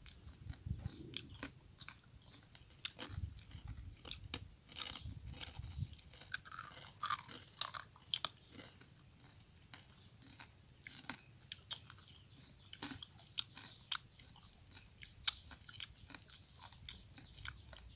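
Crisp fried macaroni being bitten and chewed, a run of irregular small crunches and clicks, busiest about six to eight seconds in, over a steady high-pitched hiss.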